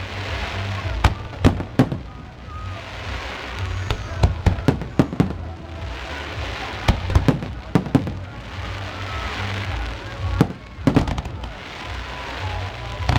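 Aerial fireworks display: a string of sharp shell bursts, some in quick clusters, with several stretches of crackling as the shells scatter their sparks.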